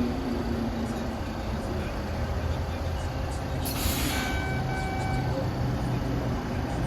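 MBTA Red Line subway train at the platform: a steady low rumble, with a falling motor whine dying away in the first second. A short burst of air hiss comes a little past halfway, then a steady electronic tone about a second long, broken once.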